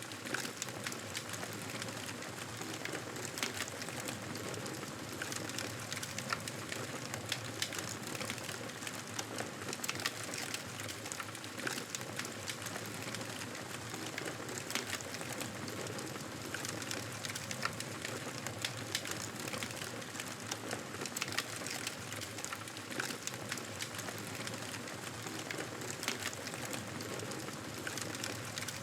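Wood fire crackling: a steady hiss dotted with frequent sharp pops and snaps.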